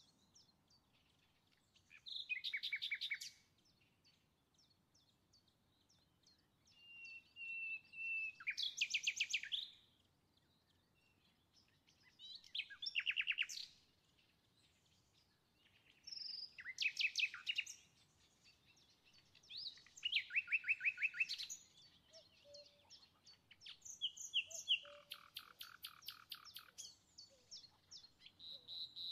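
A small songbird singing in short trilled phrases, one every few seconds. Each phrase is a quick run of repeated high notes.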